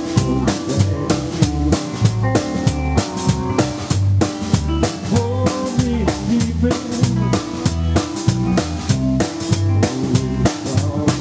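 A live rockabilly trio playing an instrumental break without vocals: drum kit keeping a steady beat, double bass walking underneath, and electric lead guitar carrying the melody.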